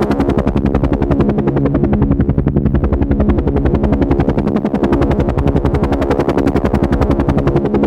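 Helicopter rotor chopping in a rapid, even beat, with a steady engine drone underneath.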